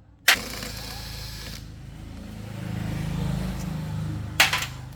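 Motorcycle engine running, starting suddenly with a burst of hiss, then getting louder as it is revved briefly and settling back. A sharp click near the end.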